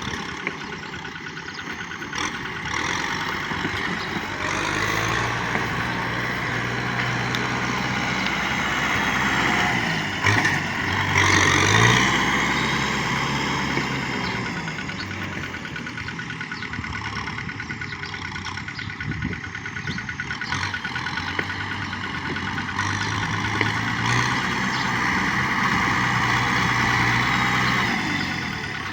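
Tractor engine running. Its pitch and loudness build to a peak about twelve seconds in, drop back, and rise again near the end.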